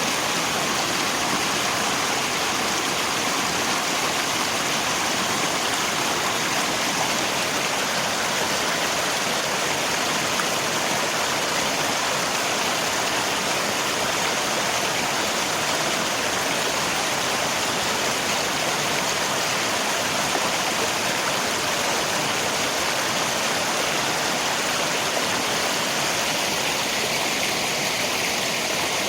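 River water rushing steadily, mixed with falling rain, in an even, unbroken hiss that does not change.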